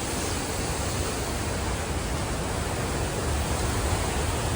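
Steady rush of water from the waterfall, a continuous even noise with no breaks.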